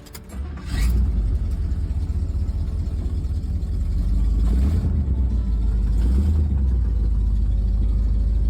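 A car engine catching about a second in, then running with a steady low rumble and two brief throttle blips a little past halfway.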